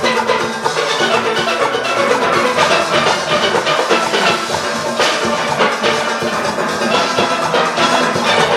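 A full steel orchestra playing: many steelpans striking fast, dense pitched notes together over a steady drum and percussion rhythm.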